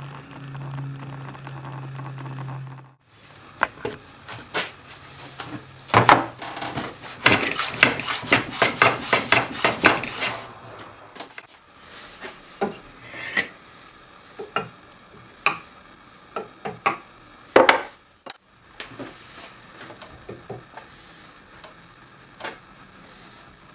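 A low machine hum runs for about three seconds and stops abruptly. Then come sharp wooden knocks and clatter from hand work with tools on wood: a quick run of taps in the middle, then scattered single knocks.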